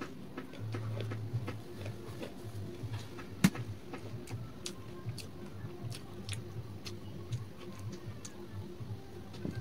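A person chewing food, with many small wet mouth clicks and light taps of fingers on the dishes. About three and a half seconds in there is one sharp clink against the dishes.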